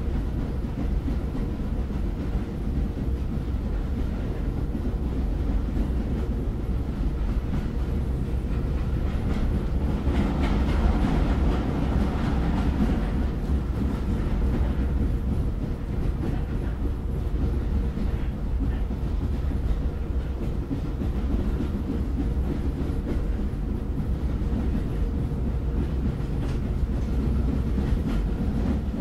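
Train running on the rails: a steady low rumble, with a louder, brighter stretch of noise about ten to fourteen seconds in.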